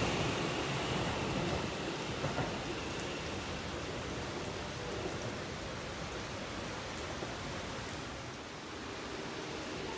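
A Keikyu train's running noise dying away over the first couple of seconds, leaving a steady, even hiss with a few faint ticks.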